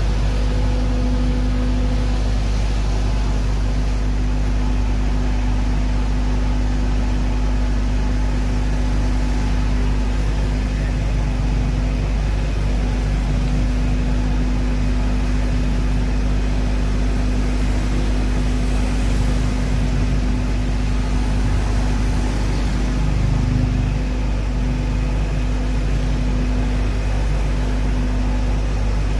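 Fire truck engine running steadily: a constant low drone with a steady hum.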